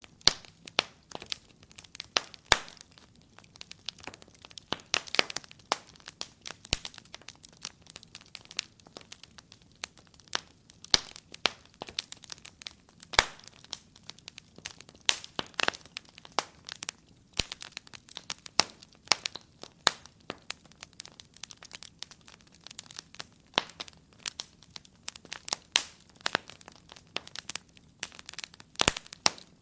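Wood fire crackling: irregular sharp pops and snaps, several a second, some louder than others, over a faint hiss.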